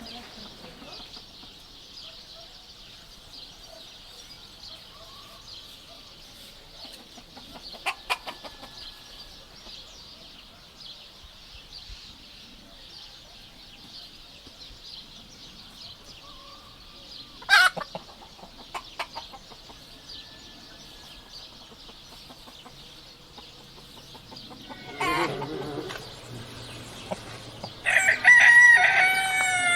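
Chickens calling with a few short sharp clucks, then a rooster crowing loudly near the end, its call falling in pitch. A steady high hiss runs underneath.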